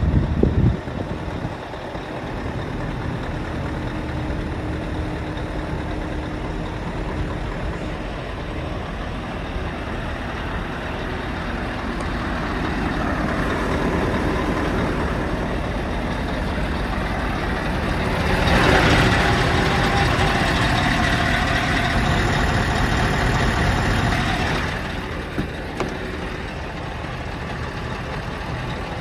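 Scania R730's V8 diesel engine running steadily, with a few loud knocks in the first second and a louder stretch of about six seconds past the middle.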